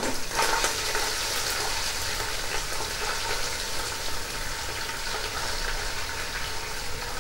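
Ginger-garlic paste sizzling in hot oil in a non-stick kadai: a steady frying hiss that eases slightly over the seconds.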